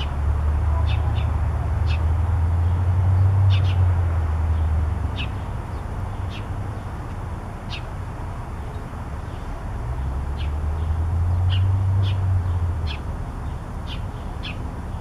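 Songbirds giving short, high, falling chirps, one or two about every second, over a low rumble. The rumble is loud for the first few seconds, fades, and swells again about ten seconds in.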